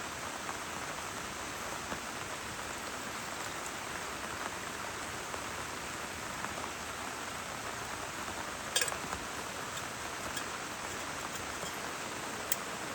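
Heavy rain falling steadily, with a few sharper drop taps, the clearest about nine seconds in.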